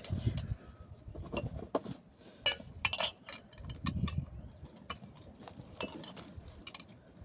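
An irregular series of sharp clinks and knocks from hard objects being handled, a dozen or more over several seconds, with a low rumble at times beneath them.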